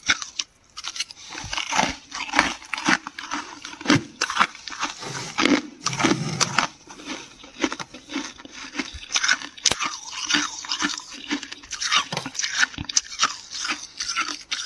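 Close-miked crunching and chewing of flaky freezer frost, a dense, irregular crackle of many small snaps.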